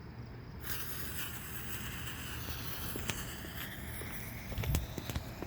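A lit firework mortar fuse sizzling steadily from about a second in: a slow-burning wick. A few faint knocks and a soft thump come near the end.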